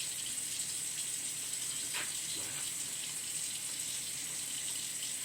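Kitchen faucet running steadily, water pouring into the sink.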